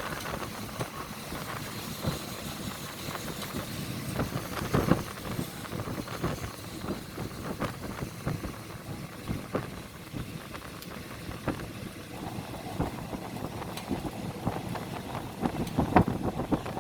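Moving train: a steady rumbling noise with irregular knocks and rattles throughout.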